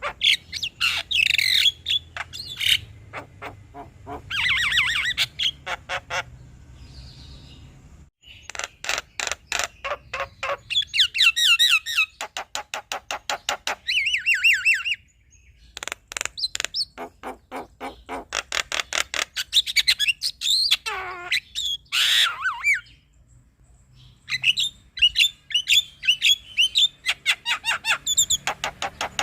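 Male Javan myna (jalak kebo) calling: rapid runs of sharp clicking notes mixed with harsh, squawky warbling and fast sweeping whistles, broken by a few short pauses.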